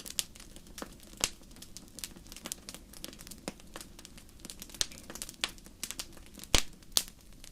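Wood fire in a fireplace crackling, with irregular sharp pops; two louder pops come near the end.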